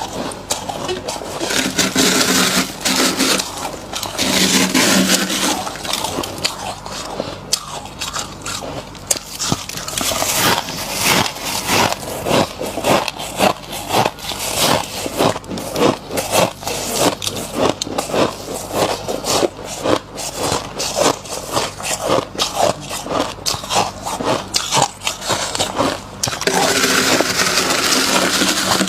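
Loose frost being dug out by hand with rough scraping, then a long run of rapid crunching as mouthfuls of frost are bitten and chewed. More scraping digs come near the end.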